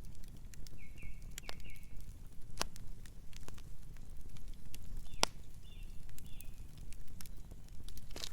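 Campfire burning, with irregular crackles and sharp pops over a steady low rumble of flame. A few short, high chirps sound in the background, a cluster about a second in and another after about five seconds.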